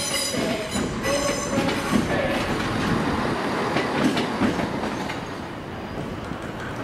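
CrossCountry Class 170 Turbostar diesel multiple unit rolling past over pointwork, its wheels clicking over rail joints with a few short squeals; the sound fades after about five seconds as the train goes by.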